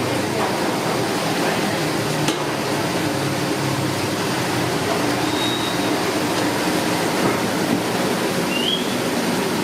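Steady loud background noise with a low hum, a sharp click about two seconds in, and two brief faint high chirps later on.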